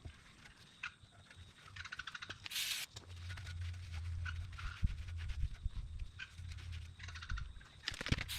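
Hands at work on metal parts: scattered light clicks and taps, a short hiss about two and a half seconds in and again near the end, and a low hum through the middle.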